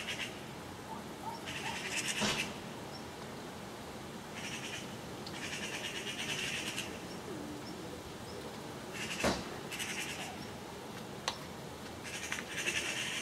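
Eurasian magpies chattering: about six bursts of fast rattling calls, each under a second or so, with a couple of short sharp knocks between them in the second half.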